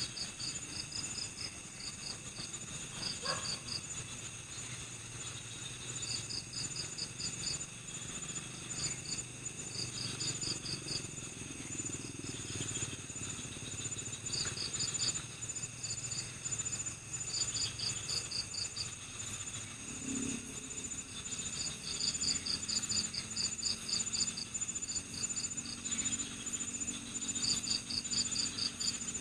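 Night chorus of crickets and other insects: a steady high-pitched trill runs under repeated short series of rapid chirps.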